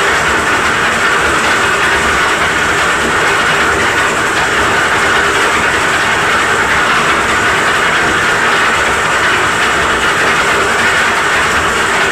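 Concrete mixer's engine running steadily while it serves as a hoist, a loud, even mechanical noise with a constant clatter.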